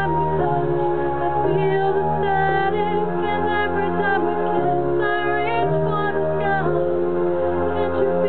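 A woman singing a slow song over a backing track, holding long notes that slide between pitches above sustained low chords.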